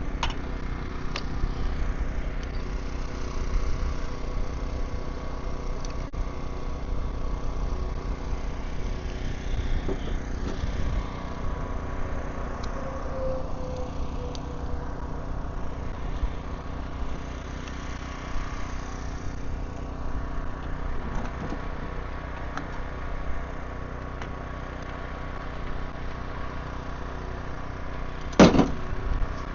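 An engine idling steadily, with one brief, sharp, loud sound near the end.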